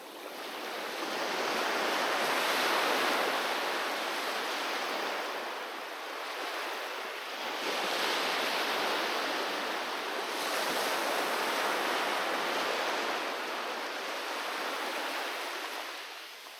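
Sea waves breaking and washing ashore, rising and falling in several overlapping swells and easing off near the end.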